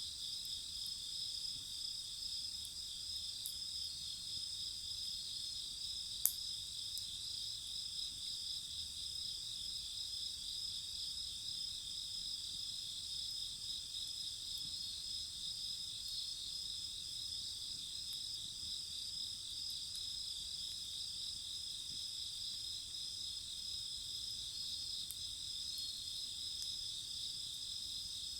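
Crickets and other night insects chirring in a steady, continuous chorus of high pulsing trills, with a single sharp pop about six seconds in.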